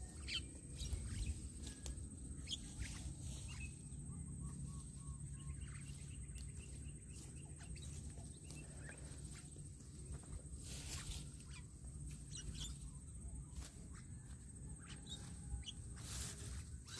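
Wild birds chirping and calling in short scattered notes, over a steady high-pitched whine and a low outdoor rumble.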